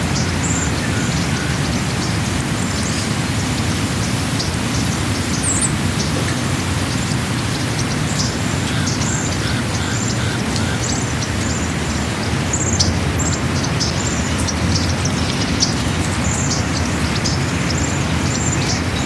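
Birds chirping repeatedly in short high calls over a steady low rushing noise.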